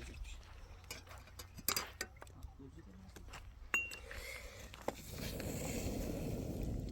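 Scattered light clinks and knocks of small hard objects being handled, one ringing briefly, then a steady rustling noise from about five seconds in, over a low steady rumble.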